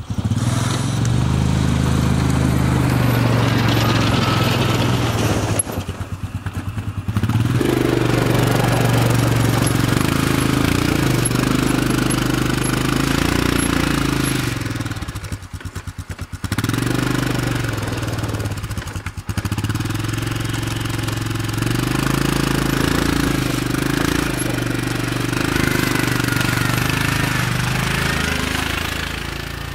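Vehicle engine running while plowing snow, its pitch rising and falling with load. It eases off briefly to a lower idle three times, about a fifth, half and two-thirds of the way through.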